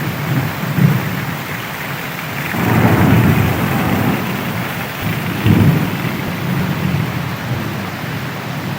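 Heavy rain falling steadily, with thunder rumbling low underneath; the rumble swells about a third of the way in and again just past halfway.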